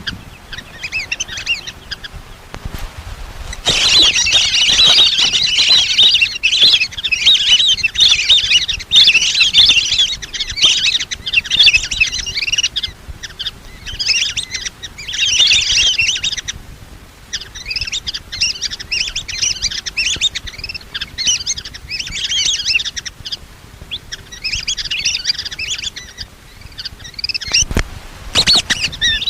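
Flock of lesser whistling ducks giving shrill, twittering whistled calls in overlapping bursts with short lulls, a recording played as a hunter's lure call.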